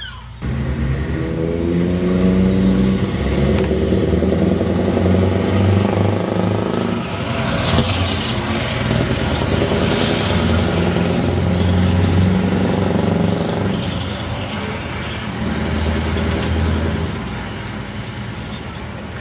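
Scania 164 480 truck's 16-litre V8 diesel driving by under load with a loud exhaust, its pitch climbing and dipping at gear changes, swelling as it passes and fading away near the end.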